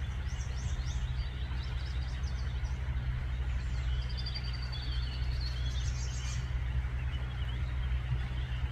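Small songbirds chirping and twittering over a steady low rumble, with a thin high trill about four seconds in.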